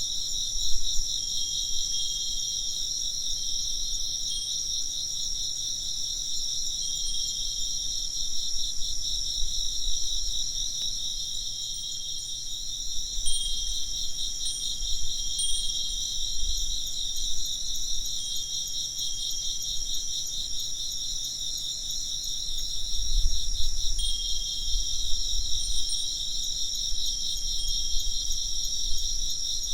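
Insects chirping in a dense, steady pulsing trill. A Japanese wind bell (fūrin) rings faintly several times, with a thin, high tone.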